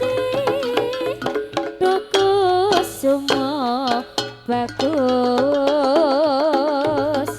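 Live Javanese campursari ensemble music for a jaranan dance: a long, wavering melodic line held over quick, frequent percussion strokes.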